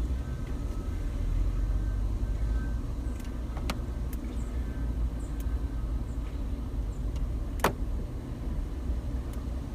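Car engine running with a steady low rumble, with a few sharp clicks over it, the loudest about three-quarters of the way through.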